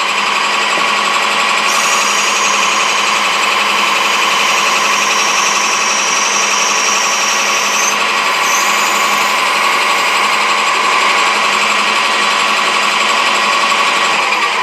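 Lathe running and cutting, turning a Delrin bushing down to size, a loud steady drone. A higher hiss joins about two seconds in and drops away around eight seconds.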